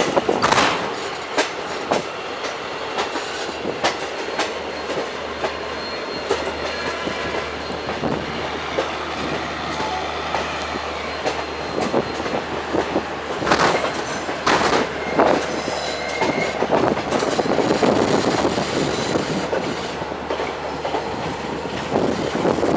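Express passenger train running along the track: a continuous rumble of the coaches with irregular sharp clacks of the wheels over the rail joints.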